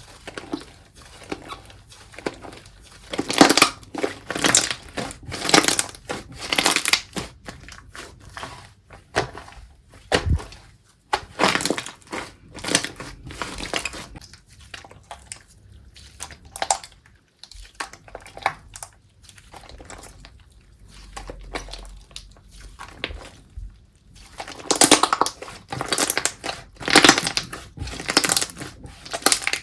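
Slime being squeezed, folded and pressed by hand, giving clusters of short squishing strokes with quieter stretches between. The busiest spells come a few seconds in, around the middle, and near the end.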